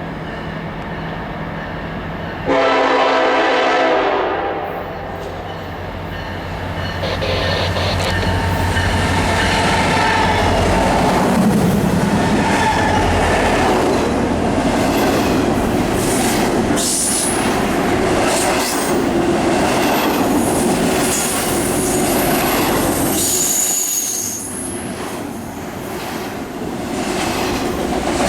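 Diesel locomotive horn sounds one long blast, then a train passes close by: engine rumble, wheels clicking over rail joints, and high wheel squeals.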